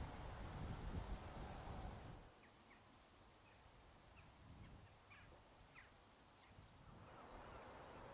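Faint outdoor countryside ambience. A low, uneven rumble for about the first two seconds, then quiet with scattered short, faint bird chirps.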